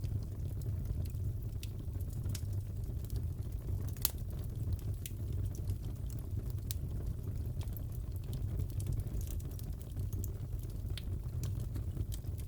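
Crackling wood fire in a fireplace: a steady low rumble of flames with scattered sharp pops and crackles, one louder crack about four seconds in.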